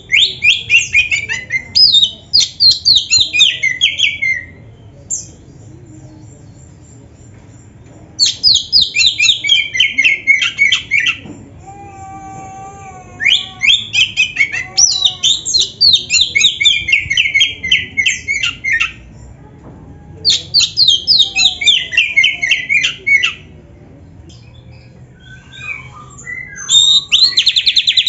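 Oriental magpie-robin (black-breasted kacer) singing loud phrases of rapid, falling high notes, several bursts a few seconds apart, with a lower wavering call between phrases about twelve seconds in.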